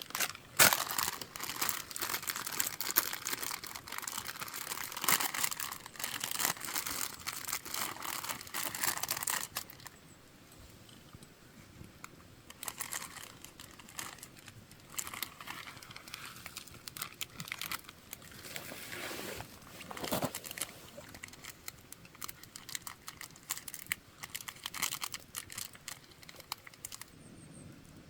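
Wood campfire crackling and popping in dense, irregular clicks over a soft hiss, easing off for a few seconds near the middle before picking up again.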